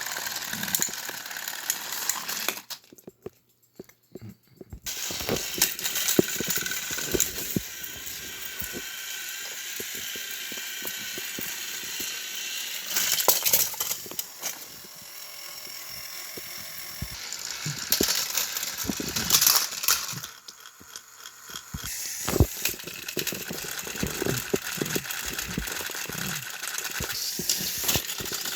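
Battery-powered toy train engines running on plastic track: a busy, rattling clatter of small gears and wheels, dropping away briefly twice.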